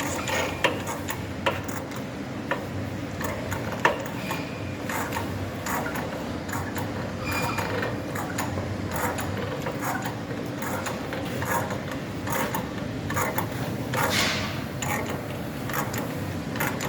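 Irregular mechanical clicking and knocking over a steady background hum, with sharp knocks near the start and about four seconds in, like metal parts being handled.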